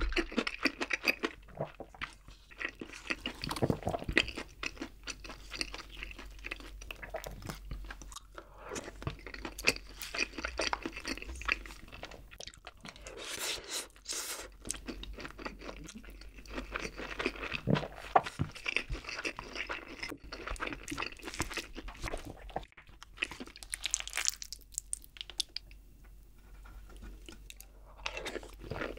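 Close-miked chewing and mouth sounds of a person eating creamy rose jjimdak (braised chicken) with rice, in irregular, crunchy bites.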